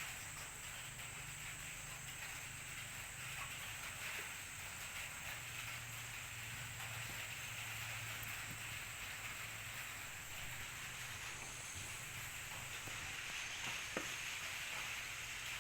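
Steady hiss of rain falling, with a faint low hum underneath and a single sharp click near the end.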